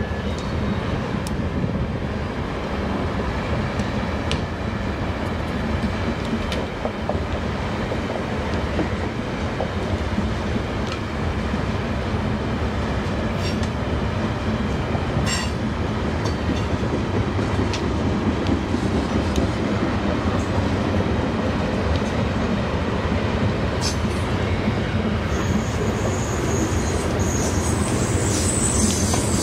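Freight train of loaded coal hopper cars rolling past with a steady rumble, with occasional sharp clicks from the wheels on the rails. Near the end, a high wheel squeal sets in.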